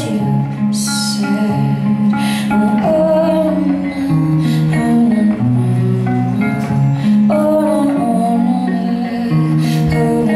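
Live music from a song performance: held low guitar notes changing every second or so under a melody line, with occasional sharp strikes.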